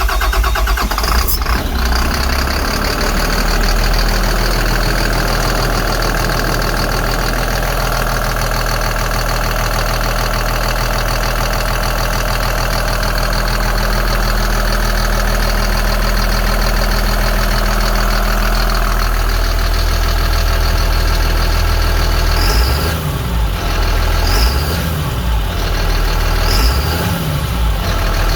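Caterpillar C7 inline-six diesel engine with 189,000 miles on it, running steadily just after starting. Near the end it is revved up and back down three times in quick succession.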